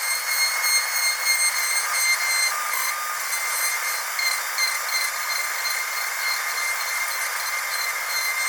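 Dental drill whining steadily at a high pitch over a hiss.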